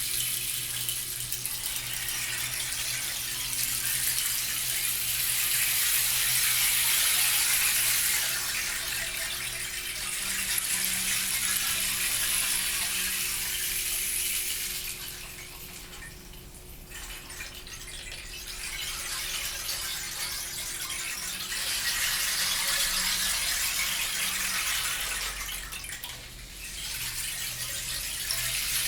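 A surf-like wash of rolling beads from a hand percussion instrument, swelling and fading in slow waves every few seconds, with two brief lulls.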